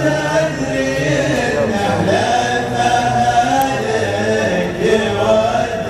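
Male voices chanting an Arabic song in the Gulf chant style, with long drawn-out held notes layered like a choir.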